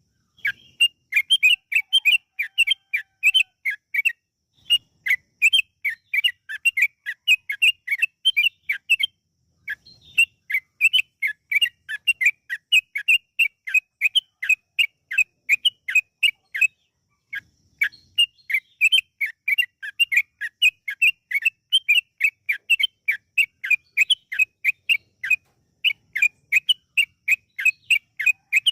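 Yellow-vented bulbul (trucukan) singing a long, rapid run of short, clear chirping notes, about four or five a second, broken by a few brief pauses. This is the continuous 'ropel' song used as a lure to set other bulbuls singing.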